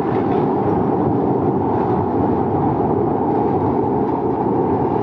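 A machine running with a steady, loud rumble.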